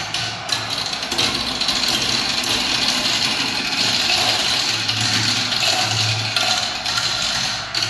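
Marbles rolling down a spiral marble-run track, a steady rolling whir and rattle with a low hum that comes and goes.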